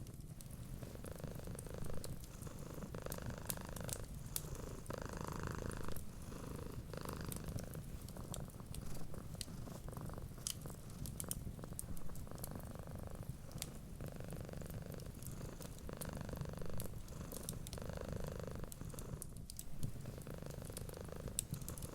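Domestic cat purring steadily, the purr swelling and fading with each breath about every two seconds. Small sharp crackles and pops from a wood fire are scattered throughout.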